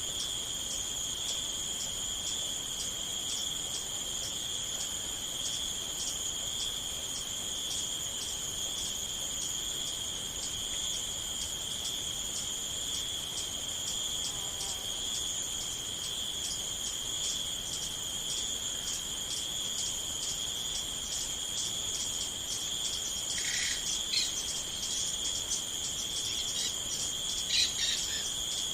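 A chorus of crickets trilling steadily, a continuous high pulsing chirr with no break. A couple of short, separate chirps from another animal cut in near the end.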